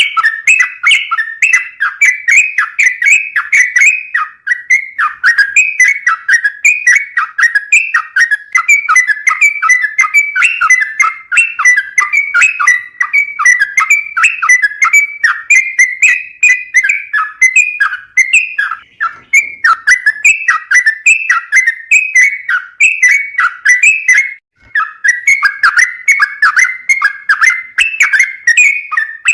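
Sooty-headed bulbul (trucukan) singing: a rapid, nearly unbroken string of short whistled phrases, dropping out briefly about 24 seconds in.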